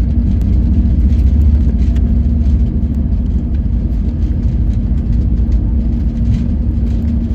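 Airliner's steady, loud low rumble with a constant hum, with faint irregular ticks over it.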